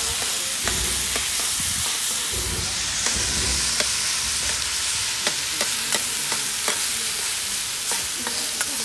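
Yakisoba noodles, meat and vegetables sizzling on a flat griddle over charcoal while two metal spatulas toss and turn them. Frequent sharp clicks and scrapes of metal spatula on the griddle sound over a steady sizzle.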